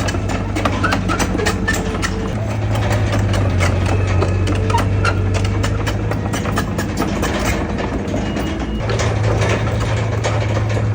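Heavy diesel engine of earthmoving machinery running steadily, with many sharp clicks and clanks over it, growing louder about nine seconds in.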